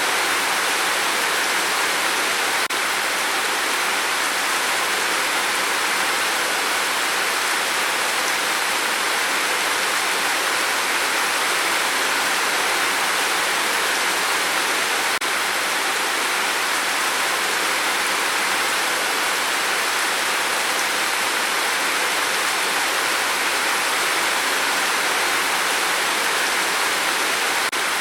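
Heavy rain falling steadily: a dense, even rush with no separate drops standing out.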